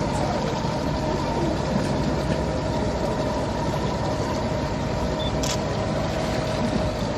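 Tour boat's engine running steadily, a constant whine over a low rumble.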